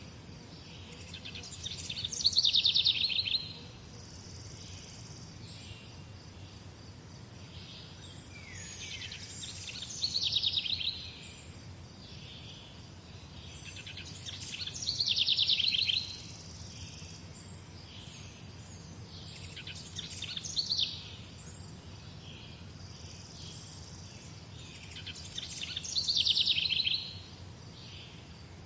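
A songbird repeating a short, fast, high trilling song five times, about every five seconds, each phrase swelling and then stopping abruptly. A steady low background rumble runs beneath it.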